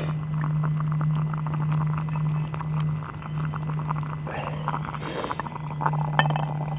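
Beetroots boiling in a billy can, the water bubbling with a dense patter of small pops, nearly done. A steady low hum runs underneath.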